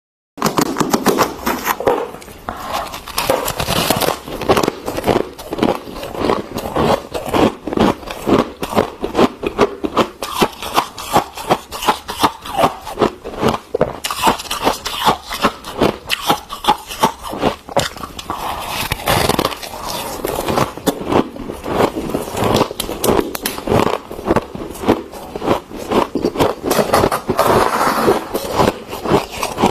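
Freezer frost being scraped and crunched: a dense, continuous run of crisp crunches, several a second.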